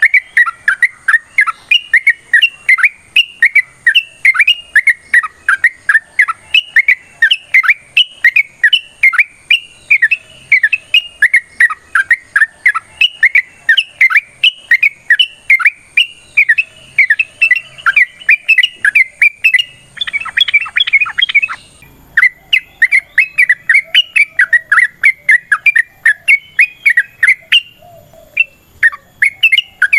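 Yellow-vented bulbul (trucukan) calling in a long unbroken series of short, rapid chirping notes, about three to four a second, with a denser chattering burst a little after two-thirds of the way through.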